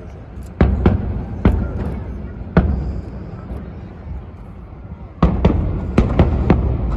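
Aerial fireworks shells bursting in the sky, each bang followed by a rumbling echo. Four bangs come in the first few seconds, then after a short lull a quicker run of about five.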